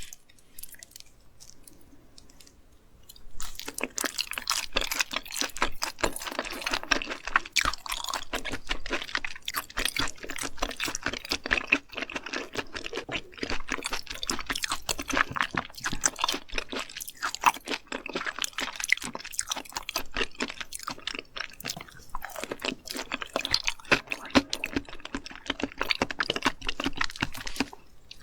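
A person chewing raw seafood with crisp, wet crunching. The chewing is quiet at first and becomes dense and steady about three and a half seconds in.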